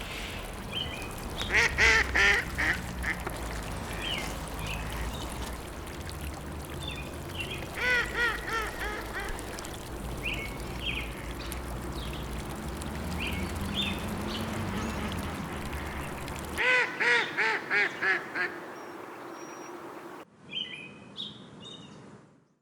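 Ducks quacking in three quick runs of several quacks each, over a steady background hiss. Near the end the track switches to small birds chirping.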